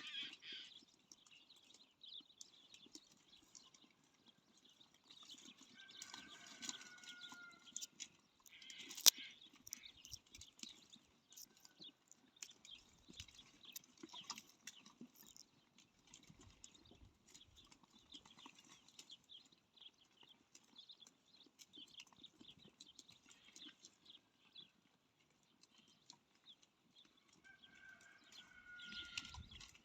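Goats heard faintly, with scattered small clicks and rustling. There are a couple of short bleats about six seconds in and again near the end, and one sharp click about nine seconds in.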